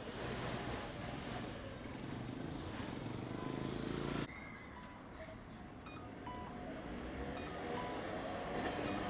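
A Tosaden streetcar running on its tracks, heard as a steady rumble of wheels and motor. The sound drops off suddenly about four seconds in, then slowly builds again toward the end.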